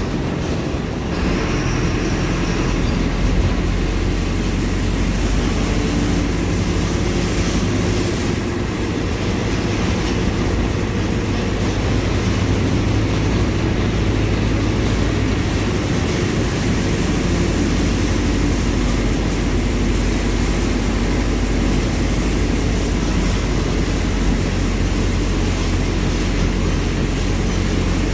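Diesel engine of a Mercedes-Benz OF-1721 city bus (a four-cylinder BlueTec 5 unit) running under way: a steady low drone whose pitch shifts a few times as engine speed changes.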